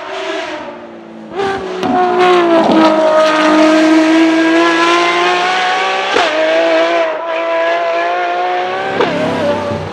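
Bugatti Chiron's quad-turbo W16 engine under hard acceleration. Its note breaks briefly about a second in and again around six and nine seconds, as at gear changes, and between the breaks it holds a high, slowly rising pitch.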